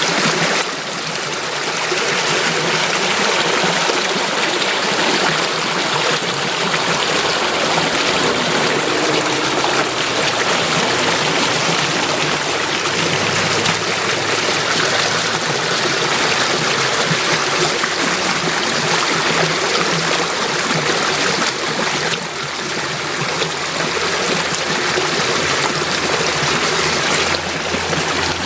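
Flowing stream water, a steady continuous rush of running water that briefly drops in level twice.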